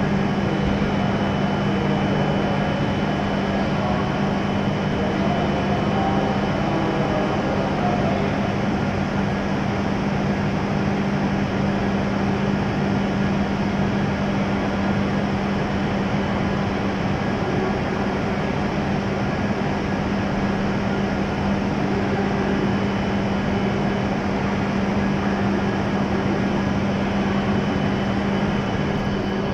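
A W7 series Shinkansen standing at the platform with its onboard equipment and air conditioning running: a steady hum with a low drone and a faint high whine.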